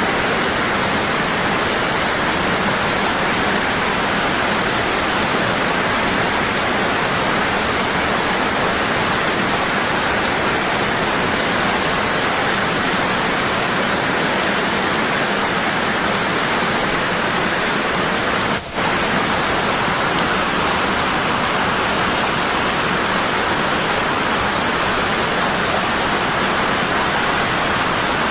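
Waterfall: water falling heavily and steadily, a constant rushing roar. The sound drops out for a split second once, about two-thirds of the way through.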